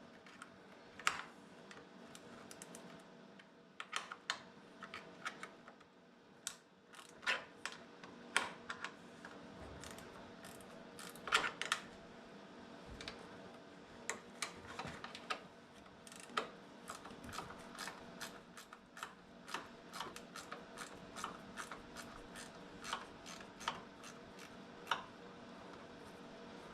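Irregular small clicks and taps of hand tools backing out small Torx and Phillips screws from plastic trim panels, over a faint steady hum.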